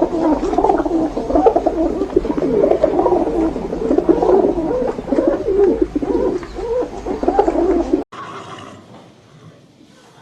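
A group of birds calling together, many low calls overlapping. The calls cut off suddenly about eight seconds in, and a much fainter sound follows.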